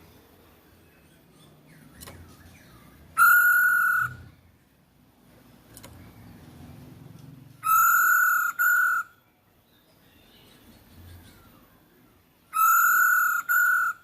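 Masked laughingthrush (poksay Hongkong) calling: three loud, flat-pitched whistled calls about four to five seconds apart, the second and third each broken into two parts, with faint chirping between.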